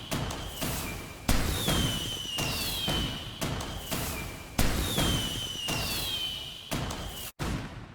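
Fireworks going off: a run of sharp bangs about once a second over a low rumble, several of them followed by a high whistle gliding downward. The sound cuts out abruptly for a moment near the end.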